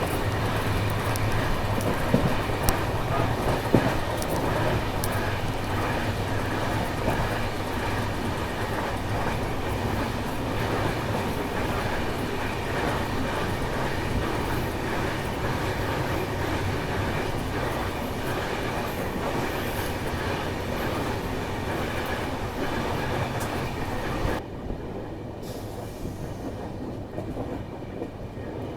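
Passenger train running on the rails: a steady rumble with wheels clattering over rail joints and a few sharp clicks early on. Near the end the sound suddenly turns quieter and duller.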